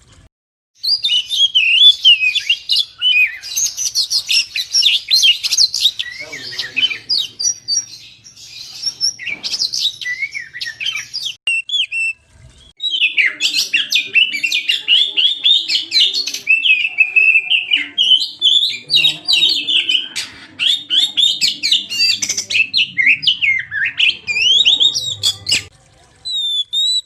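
Oriental magpie-robin (kacer) singing a full, rapid song of varied whistles, trills and chirps, delivered in two long bouts with a short pause about twelve seconds in.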